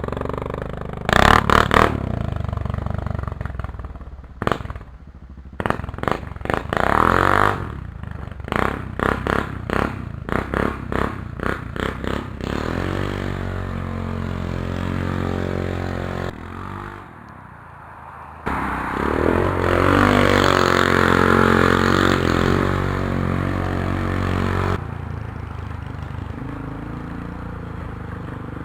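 Polaris Sportsman 500 ATV's single-cylinder engine running through a cheap aftermarket muffler. It gives a few sharp revs, then a run of quick throttle blips about twice a second, then longer revs that rise and fall.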